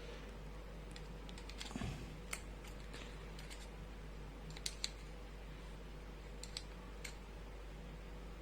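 Scattered faint clicks and light taps of gas stove valve parts being handled during cleaning, over a steady low hum.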